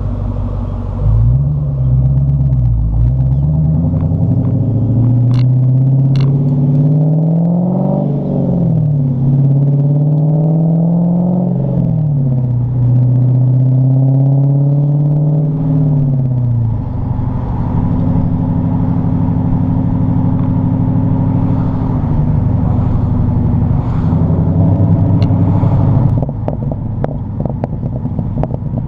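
A 2014 Dodge Challenger SRT8's 6.4-litre HEMI V8 with the rear muffler deleted, accelerating. Its exhaust note climbs in pitch, drops suddenly twice as it changes gear, and holds. It then falls back to a steady, lower note.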